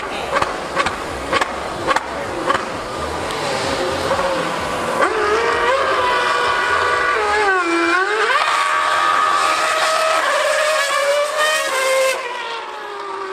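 A 2013 Formula One car's naturally aspirated V8 screams at high revs from about five seconds in. Its pitch rises, dips sharply and climbs again, then falls away near the end. A few sharp knocks come in the first couple of seconds.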